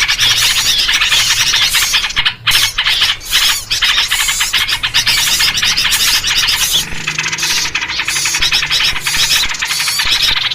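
Dense, agitated chattering of many small songbirds, rapid overlapping chirps and squeals, a bird-lure recording built on yellow-vented bulbul (trucukan) calls. A lower, throatier call joins about seven seconds in.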